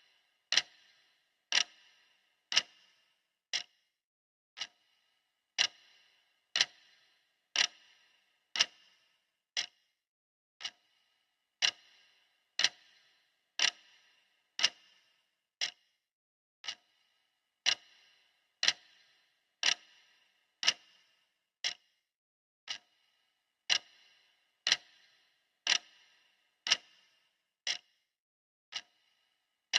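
Clock ticking sound effect of a countdown timer: sharp, even ticks about once a second, each with a brief ringing tail.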